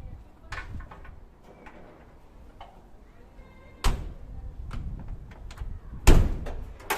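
A series of clicks and knocks, with two loud knocks about four and six seconds in and a sharper one near the end.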